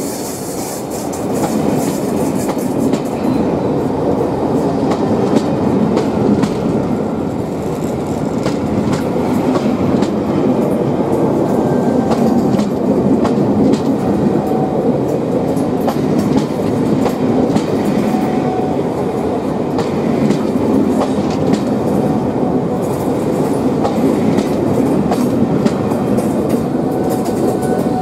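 Passenger coaches rolling past along the platform: a steady rumble with scattered clicks of wheels running over the rail joints.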